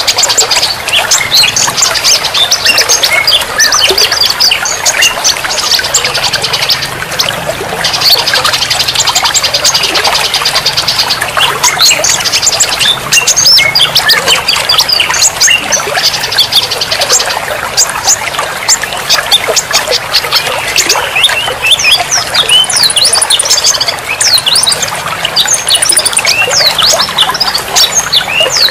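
Several songbirds singing and chirping over one another, with repeated fast buzzy trills and many quick whistled up-and-down notes, steadily throughout.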